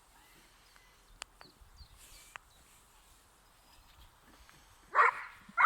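A dog giving two short barks about five seconds in, half a second apart, after a quiet stretch with a few faint clicks.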